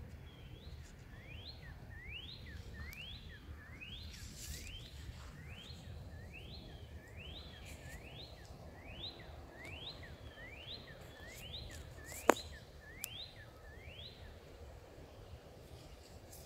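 A bird repeating a single rising note, about one and a half times a second, stopping about fourteen seconds in, over a low background rumble. One sharp click about twelve seconds in.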